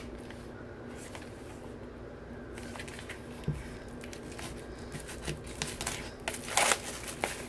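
Handling of a CD album's packaging: a soft knock about halfway, then quick rustling and crinkling of the packaging near the end, over a faint steady hum.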